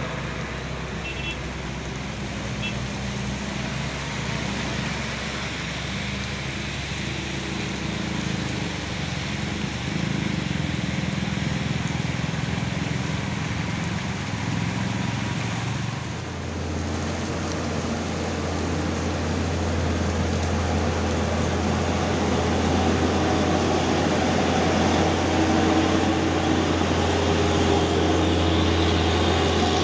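Heavy diesel truck engine labouring up a steep grade, a steady low drone that deepens and strengthens about halfway through and grows slowly louder toward the end.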